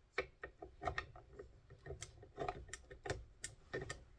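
Light, irregular clicks and taps of kitchen equipment being handled, about four a second, as a mixer and bowl are readied for beating butter and sugar.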